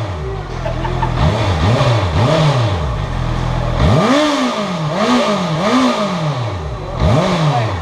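Honda CBR 650F 650cc inline-four engine revved in a series of quick throttle blips, rising sharply and falling back toward idle each time, with two runs of about three blips.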